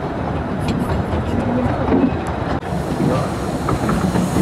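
Running noise of a moving 15-inch gauge steam train, heard from one of its carriages: a steady rumble with wheel-on-rail clatter. The sound changes abruptly a little over halfway through.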